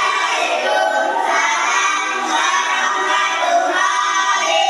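A class of schoolchildren's voices chanting together in unison, in a drawn-out, sung chorus.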